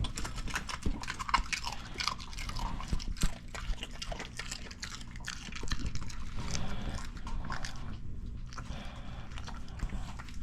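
A dog chewing and crunching, with a rapid, irregular run of small sharp clicks and crunches.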